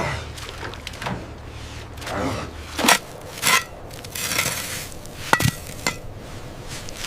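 Metal tools scraping and clinking against an old steel safe as mud is dug out of it: irregular scrapes with sharp metallic strikes, the loudest about three seconds in and again a little past five seconds.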